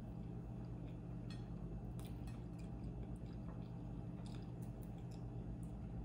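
A person chewing a bite of avocado toast with faux bacon, mouth closed: scattered small, soft wet mouth clicks over a steady low hum.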